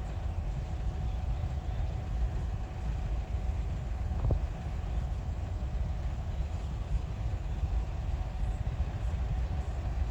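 Train passing over a level crossing: a steady low rumble, with a faint steady tone under it and a single click about four seconds in.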